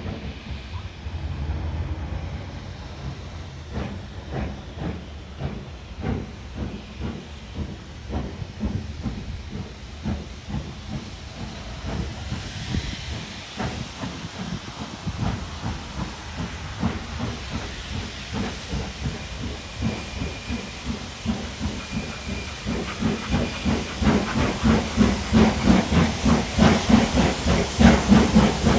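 Steam locomotive working hard, its exhaust beats chuffing in a steady rhythm with hissing steam, growing louder as it approaches over the last few seconds.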